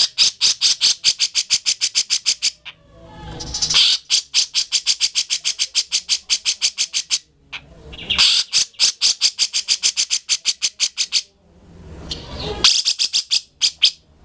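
Grey-cheeked bulbul (cucak jenggot) singing loudly: four bursts of fast chattering notes, about ten a second, each burst lasting two to three seconds with short pauses between.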